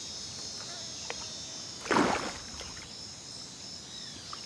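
Rainforest insects, crickets among them, keeping up a steady high-pitched chorus. A short, louder rush of noise comes about two seconds in.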